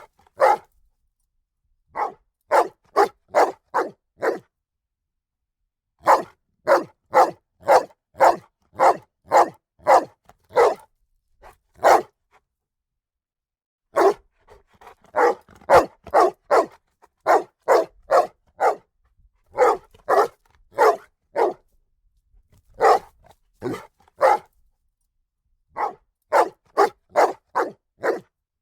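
A dog barking in volleys of several barks each, about two barks a second, with short silent pauses between the volleys.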